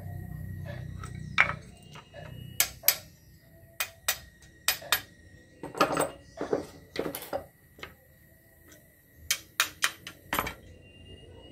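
A series of sharp, irregular knocks and clanks, some in quick pairs, with a low hum that stops about a second in.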